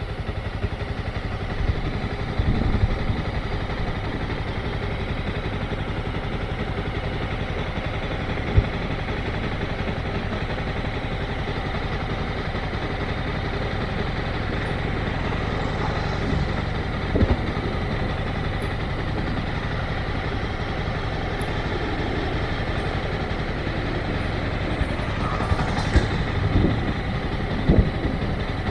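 Motorcycle engine running steadily, with a few brief knocks spread through.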